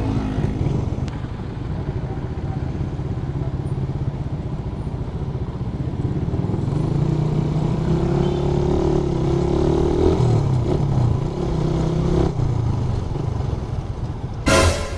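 Suzuki Raider 150's single-cylinder four-stroke engine running under way, its pitch climbing from about six seconds in as the motorcycle accelerates, then falling sharply about twelve seconds in. A short loud rush of noise near the end.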